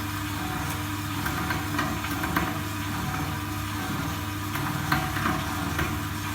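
Electric pork-skin strip cutting machine running with a steady motor hum and scattered light clicks as it cuts pork skin into 2 mm strips.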